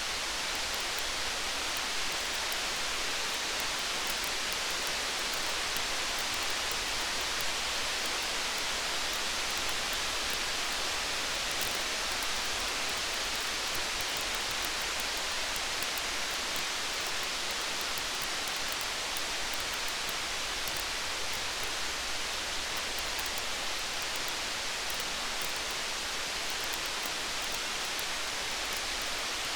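Steady rain, an even hiss, with small, frequent crackles of a campfire.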